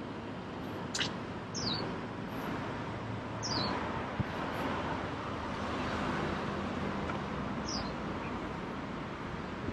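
A bird gives short, high, downward-sliding chirps three times over a steady background hum of street ambience, with a sharp click about a second in.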